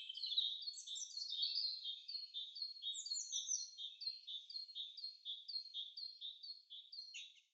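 Bird song: a long series of short, high notes, each sliding downward, repeated about twice a second, ending abruptly near the end.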